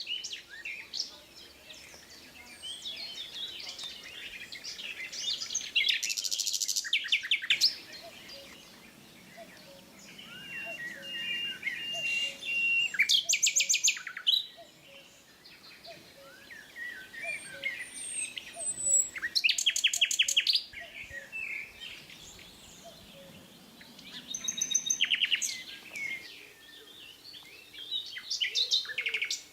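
Birds chirping and singing, with a loud rapid trill every few seconds.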